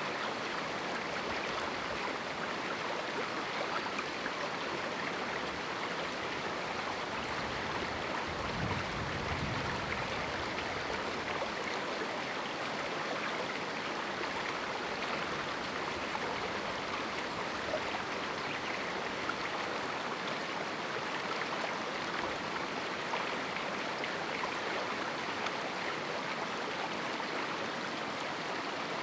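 River in a small canyon flowing steadily, an even rush of running water. A faint low rumble comes in briefly about nine seconds in.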